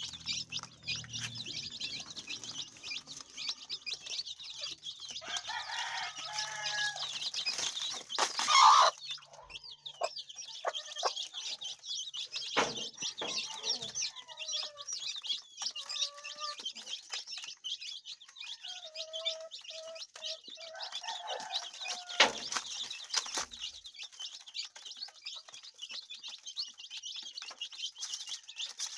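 Chickens clucking on and off over a steady high hiss, with one louder call about nine seconds in and a few sharp taps.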